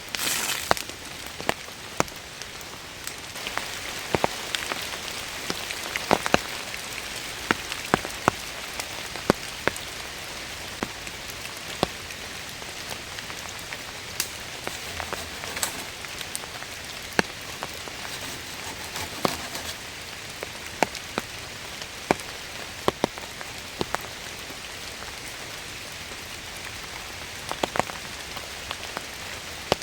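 Steady rain falling, with many single heavy drops landing close by as sharp, irregular taps. There is a brief louder burst right at the start.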